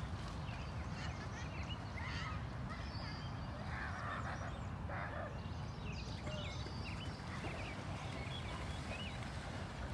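Birds calling, many short scattered chirps and calls over a steady low rumble.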